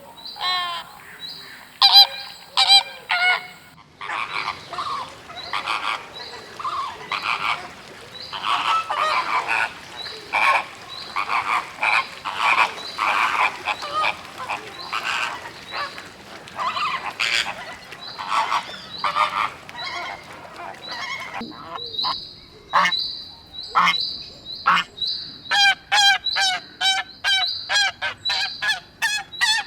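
Flock of flamingos honking, many calls overlapping at first, then separate short honks repeated quickly, a few a second, near the end.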